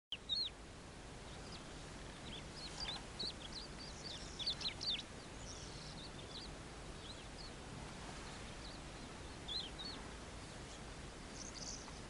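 Birds chirping: many short, high chirps in quick clusters, busiest in the first five seconds and again around ten seconds, over a steady background hiss.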